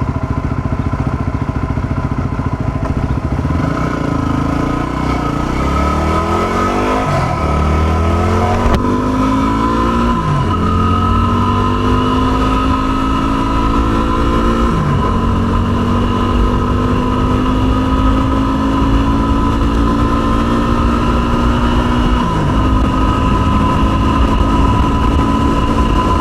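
Yamaha WR250R's 250 cc single-cylinder engine pulling the bike away and shifting up through the gears. The pitch climbs and drops back at each of about four upshifts, then holds steadier at cruising speed.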